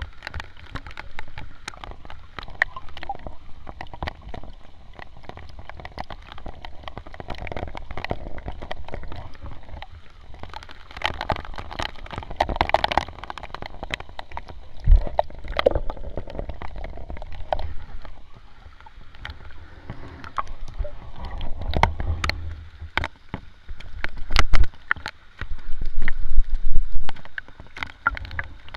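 Sea water sloshing and gurgling close to the microphone, with scattered sharp clicks. Loud low rumbles come in near the end.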